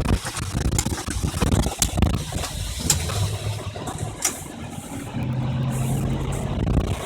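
1997 Isuzu NPR truck engine running, a low steady rumble with a few sharp clicks.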